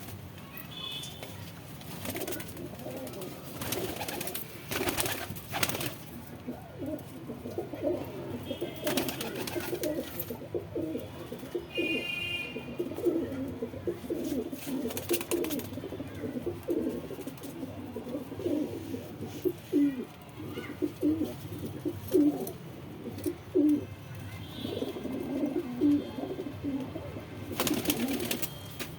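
Madrasi domestic pigeons cooing continuously in low, pulsing calls, with a few brief rustling or flapping noises over the top.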